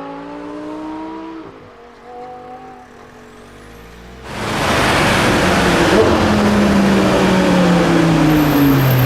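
Audi R8's V10 engine through an aftermarket exhaust: it revs up, then lifts off and fades. About four seconds in it turns suddenly much louder, a close, loud exhaust note whose pitch slowly falls.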